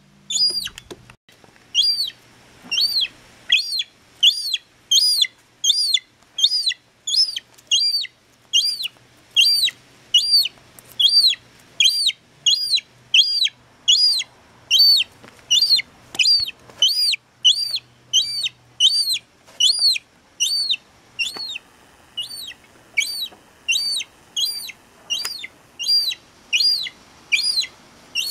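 Young seagull chick peeping steadily: a high, thin whistled call that rises and falls, repeated about one and a half times a second.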